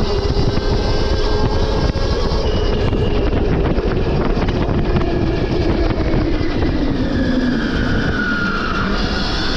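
Stark Varg EX electric dirt bike riding on dirt trails: its electric motor whine falls in pitch about seven seconds in as the bike slows, then climbs again near the end, over a heavy low rumble. Rapid clattering clicks run from about two to five seconds in.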